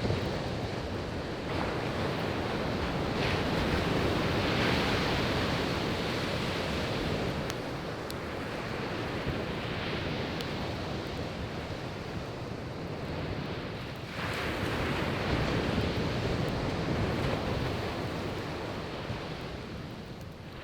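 Sea waves breaking and washing up the beach, swelling about four seconds in and again past the middle, with a few faint pops of burning firewood.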